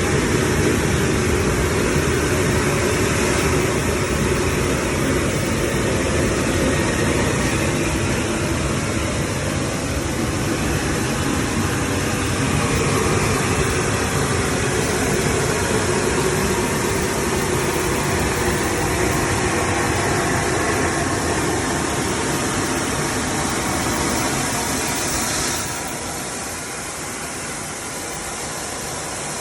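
Combination jetter/vacuum truck running, a steady rushing engine noise. About 25 seconds in it drops noticeably quieter and loses its low end.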